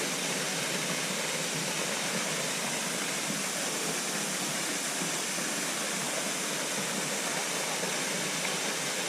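Steady rushing of a waterfall, an even hiss of falling water that does not change.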